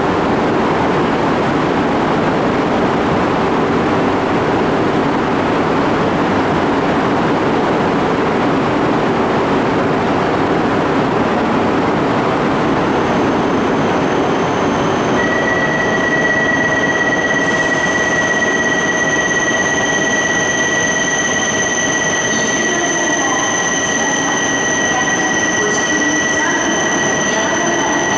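Shinkansen train running along the platform, a loud steady rushing of wheels on rail. About halfway through, high steady wheel squeal sets in and holds.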